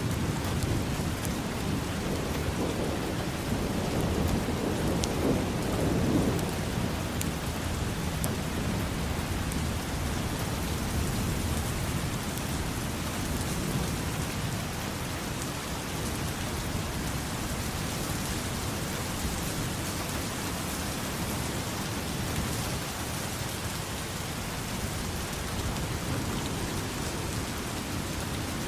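Steady rain, with a low rumble of thunder swelling about five seconds in.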